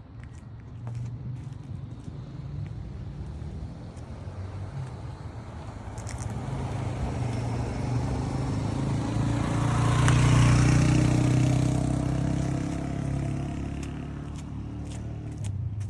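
A motor vehicle driving past: its engine hum grows louder to a peak about ten seconds in, then fades away.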